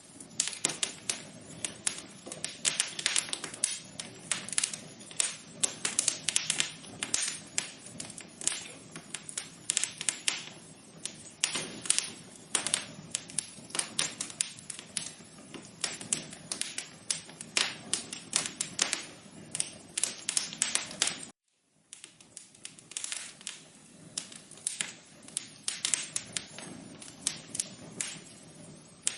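Wood fire in a fireplace crackling and popping, a dense irregular run of sharp snaps over a soft hiss. The sound cuts out completely for about half a second roughly three-quarters of the way through.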